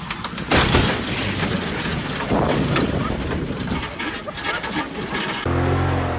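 Vehicle and road noise with a loud knock about half a second in and scattered clatter. Near the end it switches abruptly to a steady low engine drone.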